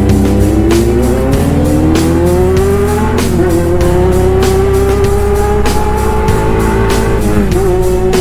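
Honda CB400 Super Four's inline-four engine through a loud aftermarket pipe, accelerating hard under load: its pitch climbs steadily, drops with an upshift about three seconds in, climbs again and drops with another shift near the end.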